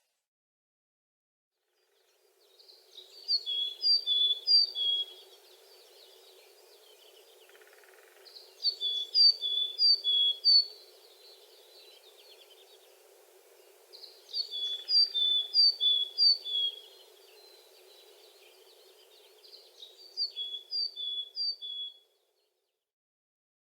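Coal tit singing: four bouts of a high, quick two-note phrase, each repeated about four times, with faint steady background noise between the bouts.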